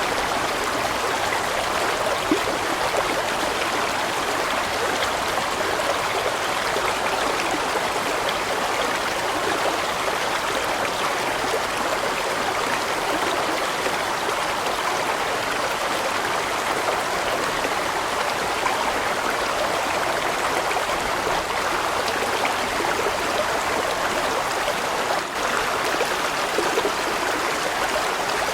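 Large mountain stream flowing over rocks: a steady, even rush of running water.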